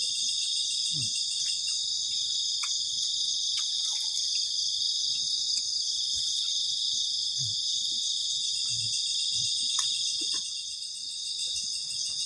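Loud night chorus of crickets, a dense steady high-pitched trilling, with a few faint scattered clicks.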